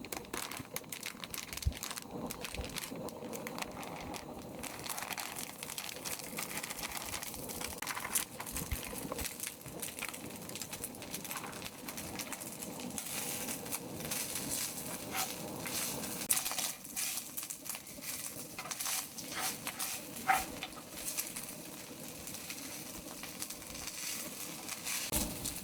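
Birds calling outdoors, with many short crackles and clicks scattered throughout.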